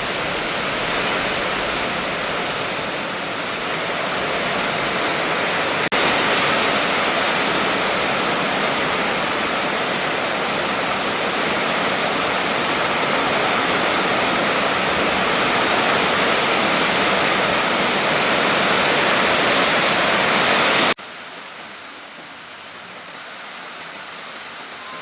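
Heavy rain pouring down steadily in a dense, even rush. It breaks off sharply about six seconds in and comes back louder, then drops abruptly to a much quieter rush near the end.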